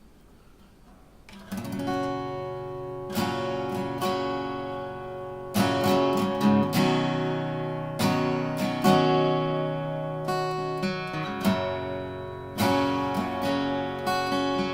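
Seagull Entourage acoustic guitar with a solid spruce top and light-gauge strings, strummed in chords. It starts after about a second and a half of quiet, and each chord rings on between the strums.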